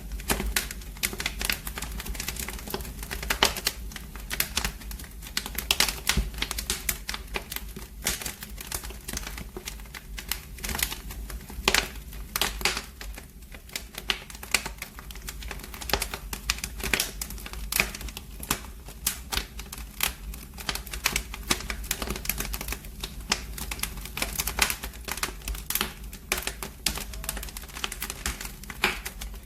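Wood fire burning in a fireplace, crackling and popping with dense, irregular snaps over a steady low rumble.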